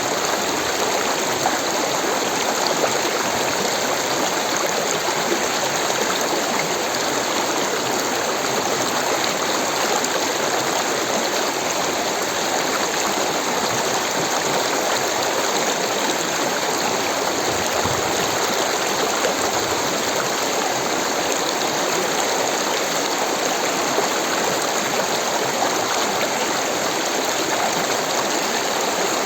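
Steady rushing water, like a fast stream running over rocks, an even, unbroken splashing hiss.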